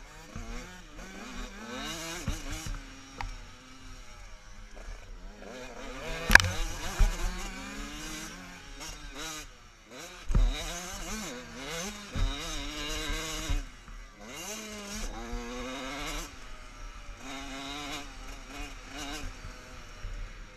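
Motocross bike engines revving hard, the pitch repeatedly rising and falling as the riders run through the gears, with several bikes heard at once. A sharp knock about six seconds in and a few low thumps stand out above the engines.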